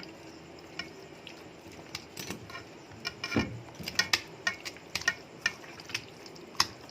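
Hands mixing a yogurt-and-spice marinade into raw chicken pieces in a bowl: a run of irregular sharp clicks and clinks, busiest in the second half.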